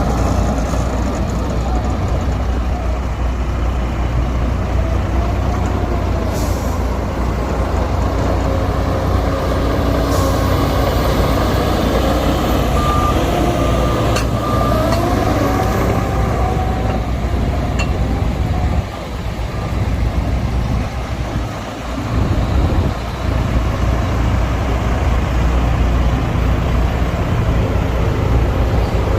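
Heavy diesel engines of dump trucks and a bulldozer running steadily, with a couple of short hisses about a third of the way in.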